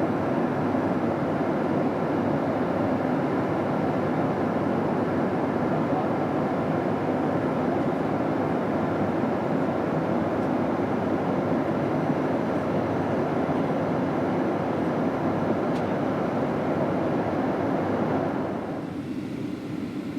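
Steady in-flight cabin roar of a Boeing 737-700, the noise of its CFM56 turbofan engines and the airflow over the fuselage. About eighteen seconds in it drops in level and loses much of its upper hiss.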